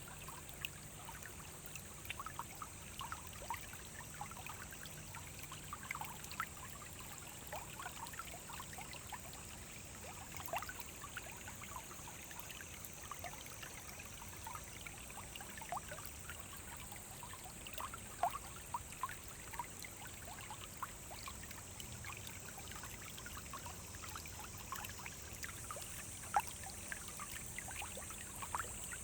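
Small forest stream running over stones, with many quick bubbling, gurgling plops over a steady rush of water.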